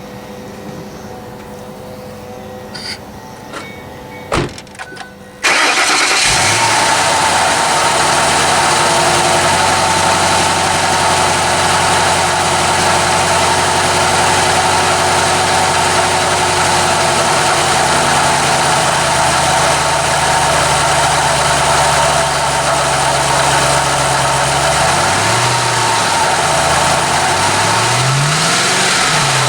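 A few clicks, then about five seconds in the 2006 Ford Mustang GT's 4.6-litre V8 cranks, catches and settles into a steady idle. Near the end it is revved briefly twice, the pitch rising and falling each time.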